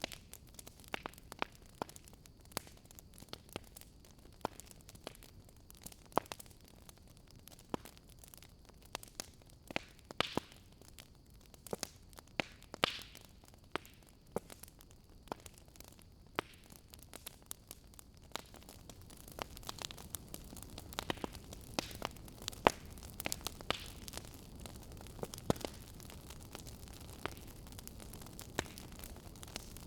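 Wood fire in a fireplace crackling, with irregular sharp pops over a faint hiss; the hiss grows a little louder past the middle.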